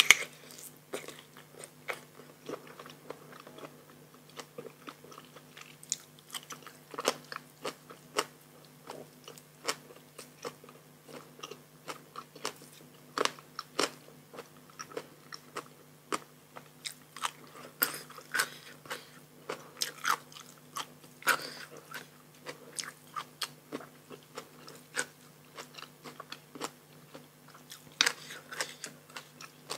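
Close-miked eating of a spicy rice-noodle salad with raw shrimp and fresh vegetables: wet chewing broken by frequent irregular crisp crunches and bites.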